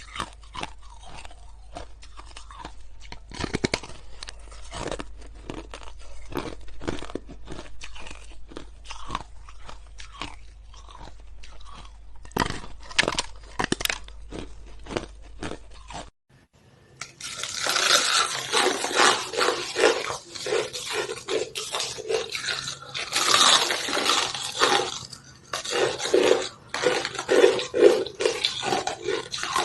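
Ice being crunched and chewed close to the microphone, a run of crisp crunches. The first half is softer and sparser over a low hum; after a brief break just past halfway the crunching comes louder and denser.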